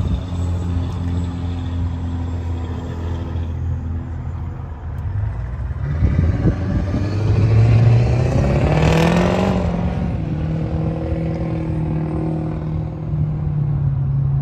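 2008 Toyota Tundra's engine running steadily, then revved once about six seconds in, its pitch rising to a peak a few seconds later before settling back to a steady idle.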